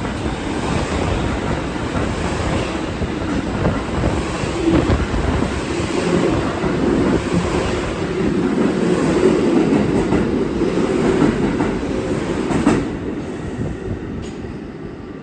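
New York City subway train running through the station, wheels on the rails, loud and steady, its noise dropping off suddenly near the end.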